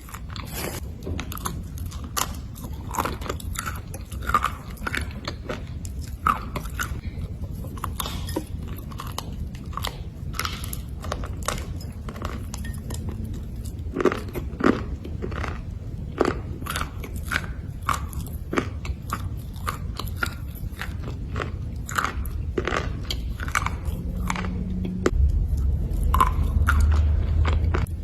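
Black slate bars being bitten and chewed, a close run of sharp crunches and grinding chews. A low hum joins near the end.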